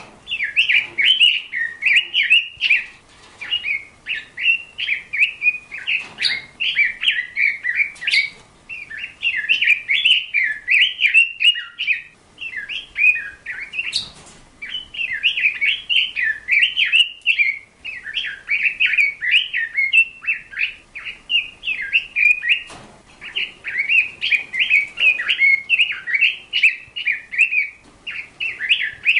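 A bird chirping and twittering in fast, jumbled phrases, almost without a pause.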